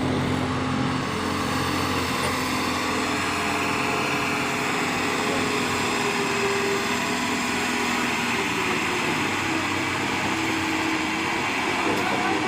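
Truck engine running steadily, an even mechanical drone with no pauses, its pitch holding level through the first few seconds.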